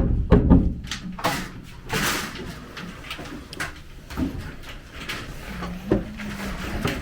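A series of separate knocks and clatters, about half a dozen spread over several seconds, of the kind a door or cupboard makes being moved and shut.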